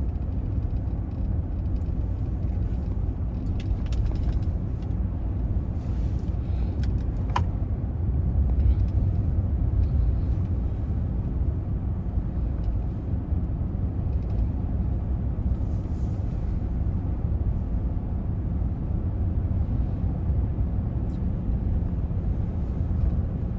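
Car cabin road noise while driving: a steady low rumble from the tyres and engine, with a few faint ticks and rattles.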